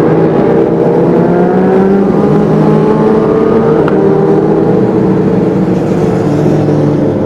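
Honda CBR600RR inline-four with a Leo Vince exhaust running at steady cruising revs while riding, its pitch rising gently then holding.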